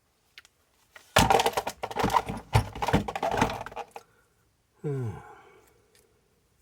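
Small metal tools and parts clattering and knocking on a workbench for about three seconds. About a second later a short squeal falls in pitch and fades.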